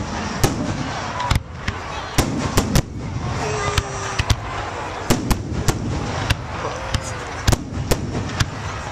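Fireworks display: about a dozen sharp bangs of bursting shells at irregular intervals, sometimes several within a second, over a continuous crackling din.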